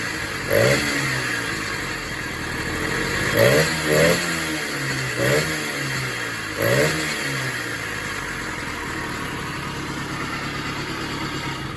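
1976 Italtelai Pacer moped's two-stroke engine blipped with the throttle five times, each rev rising and dropping back, then idling steadily.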